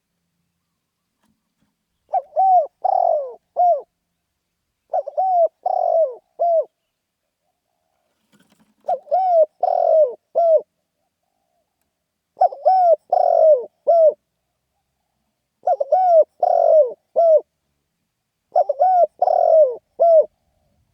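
Spotted dove cooing: six short phrases of three or four coos each, with a gap of a second or two between phrases.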